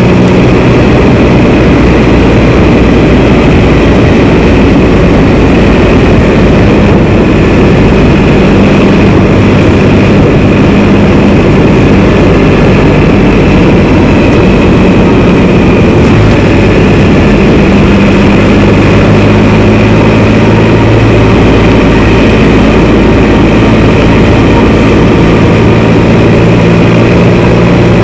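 Can-Am Spyder three-wheeled motorcycle riding at a steady pace. Its engine drones steadily under loud wind and road rush on the microphone, and the engine note shifts a little in pitch a few times.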